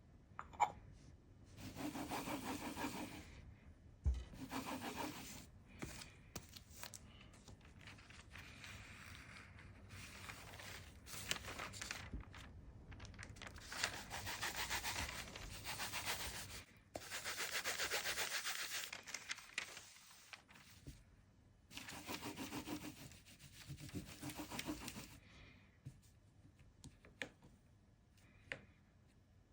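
Repeated hand rubbing strokes on a hard surface, in spells of one to three seconds with short pauses between, and a few light clicks near the start and near the end.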